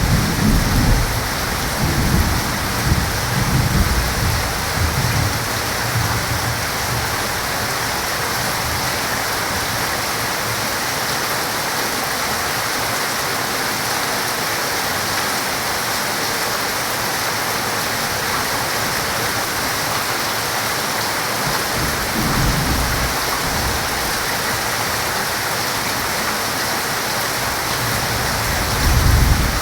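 Heavy rain falling steadily, with thunder rumbling low in the first few seconds and fading away, then another roll of thunder building near the end.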